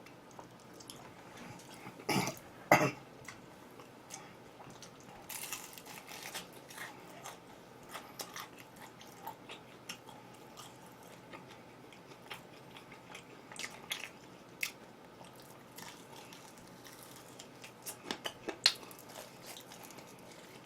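Close-miked eating: chewing and biting with scattered small crunches and mouth clicks, and two louder bursts about two seconds in.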